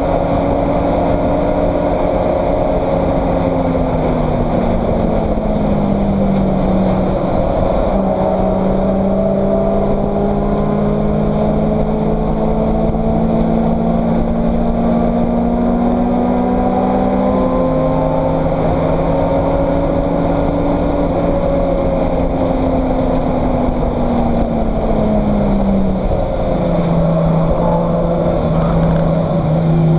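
Race car engine heard from inside the stripped cockpit, running hard on track. Its note climbs slowly and falls several times, about five seconds in, around seventeen seconds in, and again near the end.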